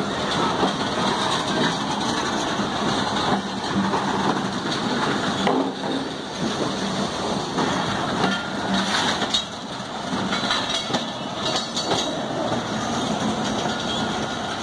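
A Pakistan Railways passenger train's coaches rolling past close by: a steady rumble of wheels on rails, broken by occasional knocks.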